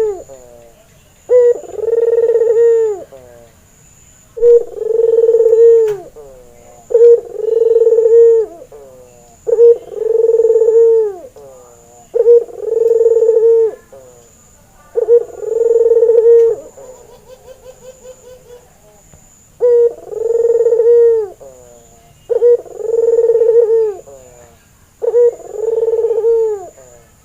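White albino Barbary dove (burung puter) cooing: a short note followed by a long held coo, repeated about every two and a half seconds, around nine times. About two thirds of the way through, a quieter quick run of short notes stands in for one coo.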